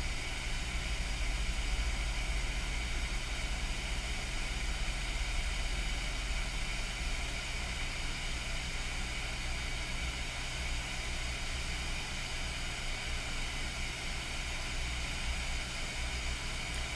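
Hakko hot-air rework station blowing steadily at high airflow: a continuous hiss with a constant fan hum, heating the HDMI port's solder to free the port from the board.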